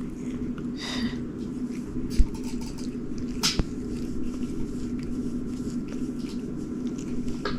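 Scattered light clicks and handling sounds, with one dull thump about two seconds in, over a steady low hum.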